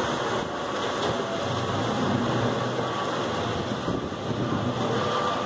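Steady running of the cruise ship's lifeboat engines as the boats manoeuvre alongside to be hoisted aboard, mixed with wind noise on the microphone.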